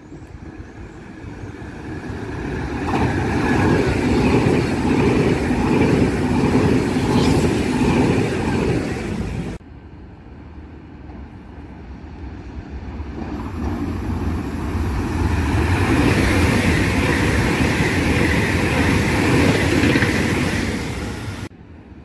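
Two high-speed passenger trains pass one after the other, each a swelling low rumble and rushing hiss of wheels and air. The first cuts off suddenly about halfway through; the second builds up and cuts off suddenly again near the end.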